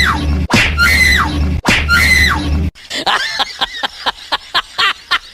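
High-pitched screaming cries: three near-identical ones about a second apart, each rising and then falling, over a loud steady low hum. About two and a half seconds in they give way to a fast run of short sharp yelps, five or six a second.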